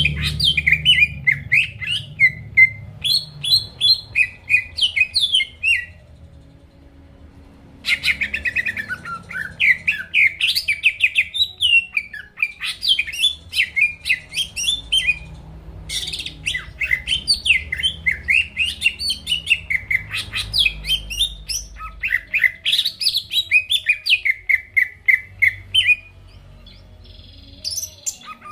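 Cucak ijo (green leafbird) singing in long runs of rapid, varied chirps and whistles. It pauses about a fifth of the way in and again near the end: the full, non-stop song of a bird in top form (gacor).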